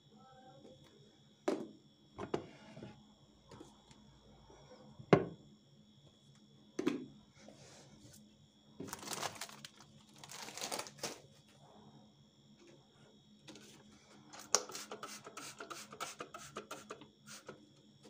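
Household items handled while a pantry cupboard is cleaned: several sharp knocks of things being set down, a couple of seconds of rustling, then a quick run of light clicks and rattles near the end.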